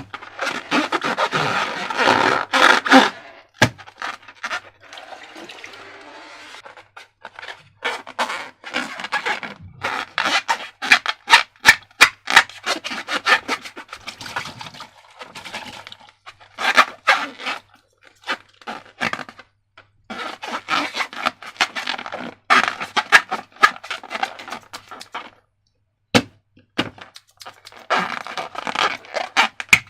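Slime and latex balloons handled up close: irregular bursts of sticky crackling, clicking and rubbing, with a few single sharp clicks.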